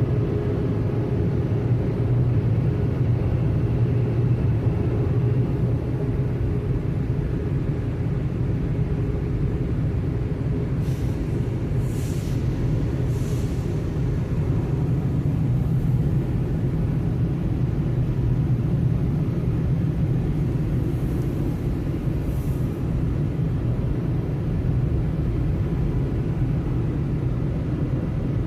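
Automatic car wash machinery running with a steady low rumble, with a few short hissing bursts about eleven to thirteen seconds in and again around twenty-two seconds in.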